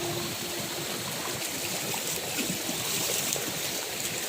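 Floodwater flowing, a steady rush of water.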